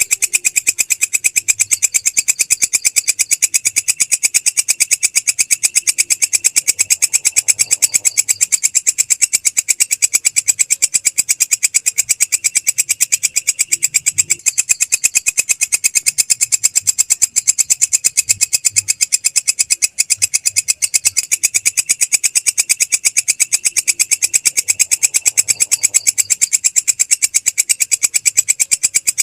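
Belalang krek, a singing grasshopper, calling in a continuous fast, even train of dry clicks, high-pitched and unbroken.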